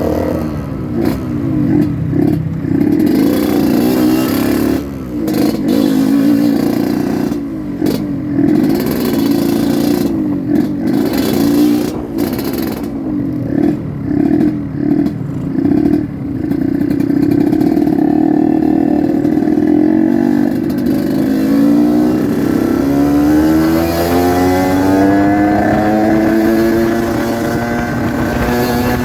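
Yamaha RX-King two-stroke motorcycle being ridden, its engine note swinging up and down in quick throttle changes for the first half. It then holds steady for a few seconds and climbs in pitch again and again as it accelerates through the gears near the end.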